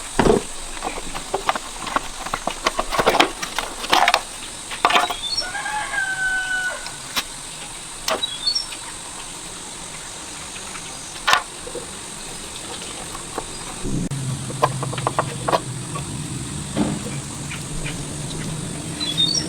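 Scattered sharp knocks and taps, like tools striking metal, with a short animal call about six seconds in. A low steady hum sets in about fourteen seconds in.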